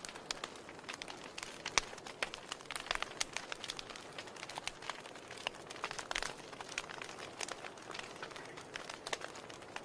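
Wood fire burning in a fireplace: irregular crackles and pops, several a second, over a soft steady hiss.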